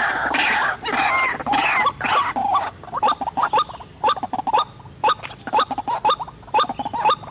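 White-breasted waterhen (ruak-ruak) calling: loud harsh calls for the first two seconds or so, then a run of short repeated notes at about three a second.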